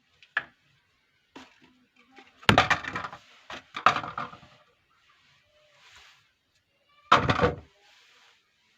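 Soap packaging being opened by hand: the wrapper crackles and tears in three loud bursts, with light taps and rustles between.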